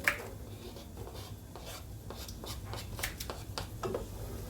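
Kitchen utensils working: a sharp knock right at the start, then a run of light, irregular taps and scrapes.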